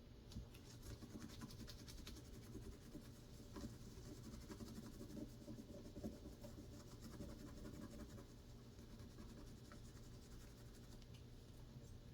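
Faint, irregular scratching and scraping against a graphics card's circuit board, with small ticks and rubs.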